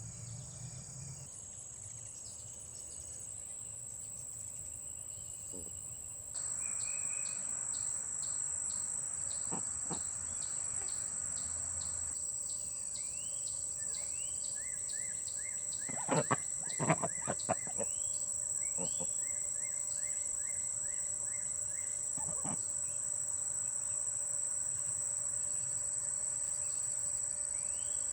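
Summer outdoor insect chorus: a steady high-pitched trill of crickets or other insects, which steps up in level about six seconds in. Short repeated bird chirps join in the second half, and a cluster of sharp clicks sounds a little past the middle.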